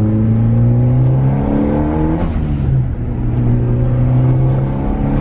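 Mitsubishi Lancer Evolution's turbocharged four-cylinder engine accelerating hard, its pitch climbing through one gear, dropping at an upshift about two seconds in, then climbing again through the next gear.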